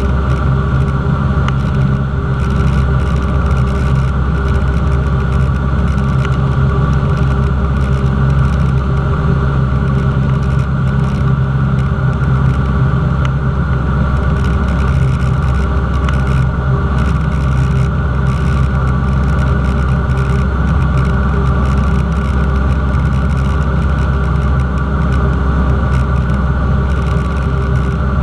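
Cessna 172's piston engine and propeller running at a steady, unchanging drone.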